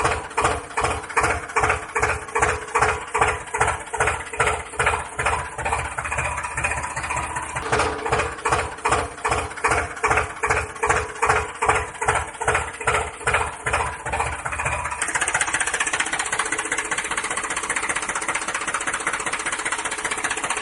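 Tractor engine chugging in an even beat of about two to three pulses a second, changing about fifteen seconds in to a steadier, higher-pitched hum.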